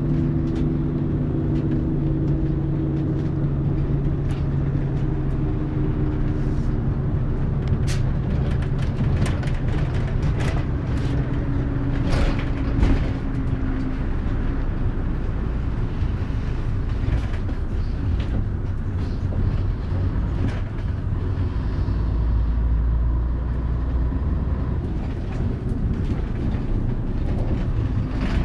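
Scania CN113CLB city bus running: a steady engine tone in the first half gives way to continuous rumble and road noise, with short rattles and clicks around the middle and a heavier low rumble later on.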